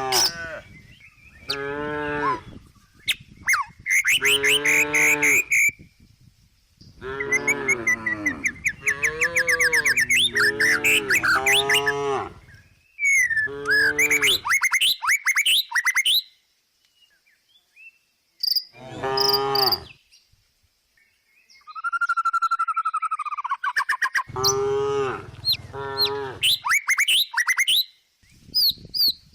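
Cow mooing over and over in a string of long, loud calls with short gaps between them. Birds chirp in the background.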